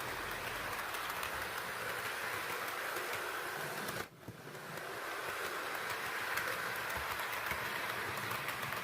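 Model train running steadily on its track: a continuous whirring hum with faint clicking, cut by a sudden brief drop about four seconds in.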